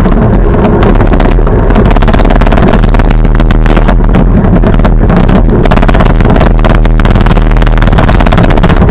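Minneapolis-Moline G900 LP tractor's propane-fuelled engine running steadily and loudly.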